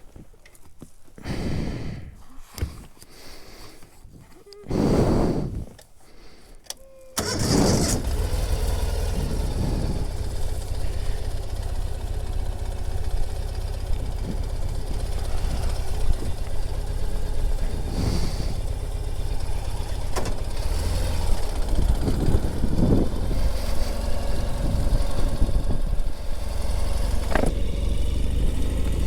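Ural Gear Up sidecar motorcycle's air-cooled 749 cc boxer twin starting about seven seconds in, after a few short handling sounds, then running steadily at idle with occasional small blips.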